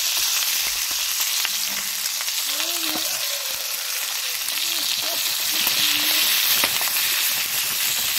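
Chicken frying in hot oil in a paella pan over a strong wood fire: a steady sizzling hiss with small sharp ticks and spatters as the meat is stirred with a long ladle.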